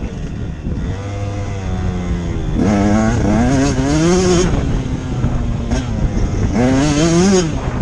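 Motocross bike engine revving up hard twice, about three seconds in and again near the end, its pitch climbing and wavering, with lower steadier running in between.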